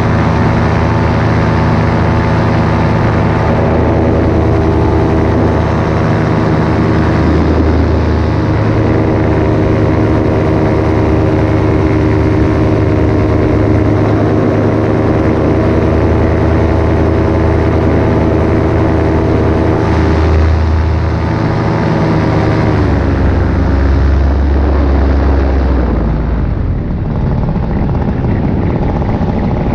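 Paramotor engine and propeller running steadily at cruise power in flight, then throttled back about two-thirds of the way through, the pitch dropping and wavering before settling lower.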